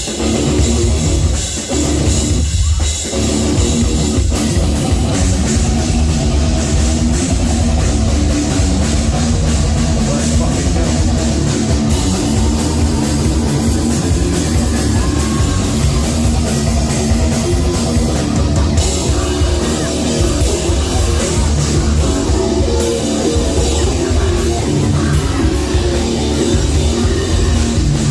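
Live heavy metal band playing loud: distorted guitars, bass and a pounding drum kit, with brief breaks in the music in the first few seconds.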